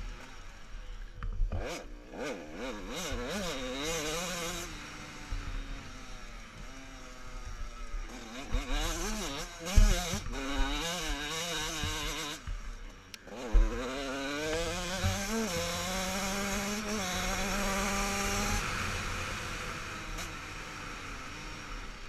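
Motocross bikes racing, their engines revving up and down through the gears in repeated passes, one climbing steadily in pitch and holding near the end. Two sharp knocks stand out, about ten and thirteen seconds in.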